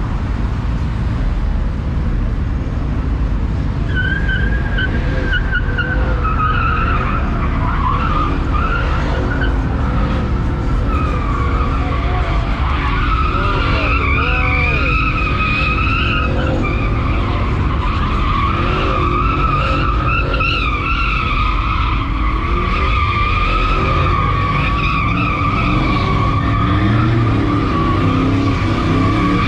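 A pickup truck's tyres squealing continuously as it spins donuts, with its engine revving and rumbling underneath. The wavering squeal sets in about four seconds in and keeps going.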